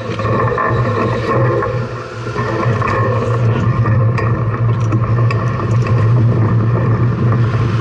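Steady vehicle or road noise with a constant low hum.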